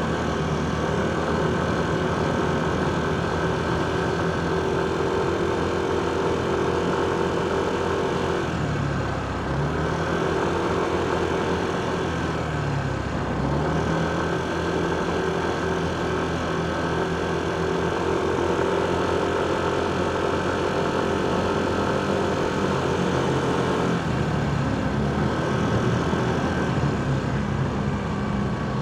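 Motorcycle engine running in slow, heavy traffic, with the sound of surrounding vehicles. The engine speed drops and picks up again about nine seconds in and once more around thirteen seconds.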